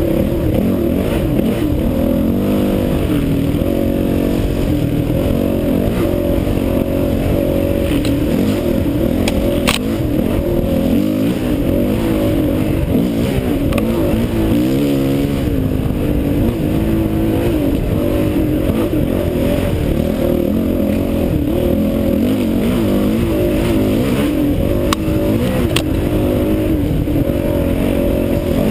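Honda CRF450X dirt bike's single-cylinder four-stroke engine revving up and down continuously as it is ridden off road, with a few sharp knocks, about ten seconds in and near the end.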